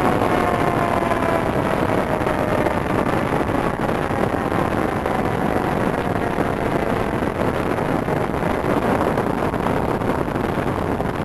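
Fire engine driving on the road, its engine and road noise steady and loud, while its siren winds down, slowly falling in pitch and fading out over the first half.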